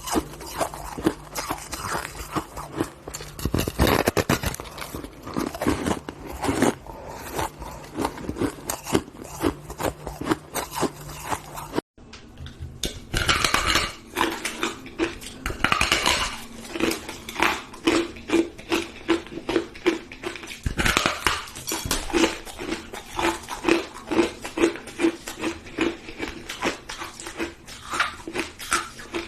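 Close-up biting and chewing of crunchy ice: a dense, irregular run of crisp crunches, breaking off for an instant about twelve seconds in and then carrying on.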